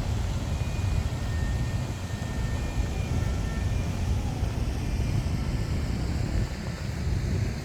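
Steady low rumble of city traffic, with a few faint short tones above it.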